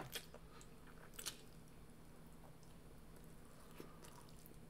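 Faint eating sounds: a child chewing birria ramen noodles with his mouth full, with a few small clicks near the start and about a second in, over a low steady hum.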